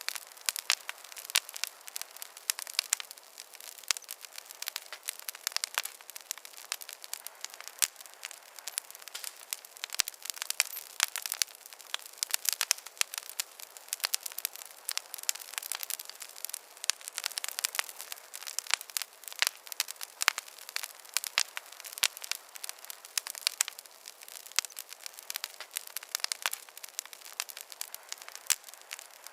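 Wood fire crackling and popping steadily, with many sharp irregular snaps over a soft hiss.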